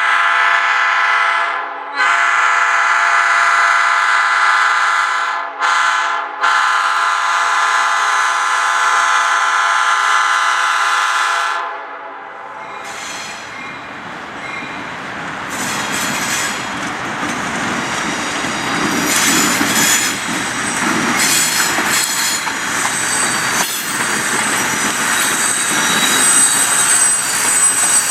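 A diesel locomotive's multi-note air horn blows the grade-crossing signal: long, long, short, then a long final blast that stops about 12 seconds in. The train then rolls past, with a rumble of engine and wheels and high-pitched wheel squeal.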